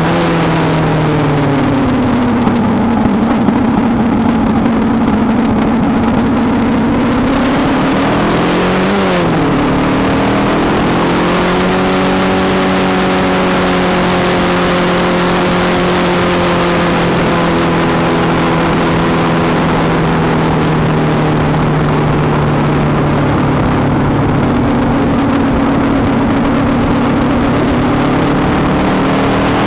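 Kawasaki ER-5's 500 cc parallel-twin engine running under way, with wind rushing over the microphone. The revs sag low for a few seconds, climb to a quick peak and drop about nine seconds in, then hold steady for most of the rest.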